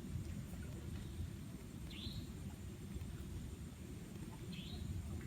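A bird's short chirping call, repeated about every two and a half seconds (twice here), over a steady low rumbling background noise.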